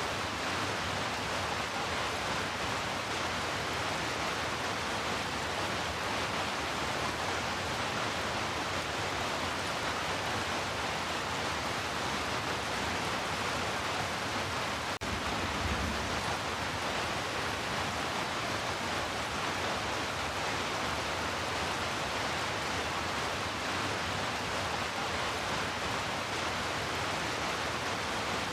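Heavy rain falling steadily, an even hiss with no let-up, with one faint click and a brief low thud about halfway through.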